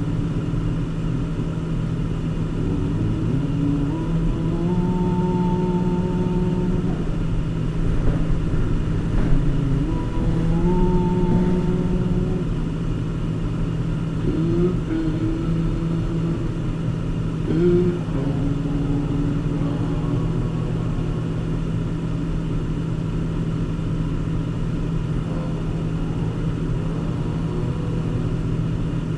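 Car engine and road noise while driving, a steady low drone whose engine note rises and drops back a few times as the car speeds up and slows.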